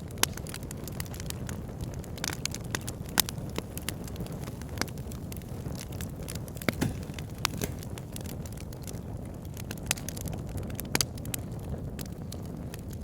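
Wood fire in a log burner crackling over a steady low rumble of flames, with irregular sharp pops and snaps every second or so.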